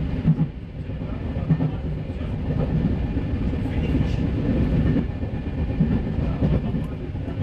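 RER B commuter train running at speed, heard from inside the carriage: a steady low rumble of wheels on rail with a few irregular knocks from the track.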